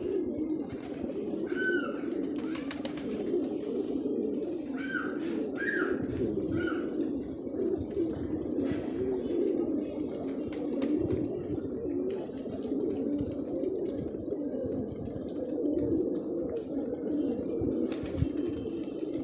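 A flock of pigeons cooing continuously, many calls overlapping. A few short, higher bird chirps come through in the first several seconds, with occasional light clicks.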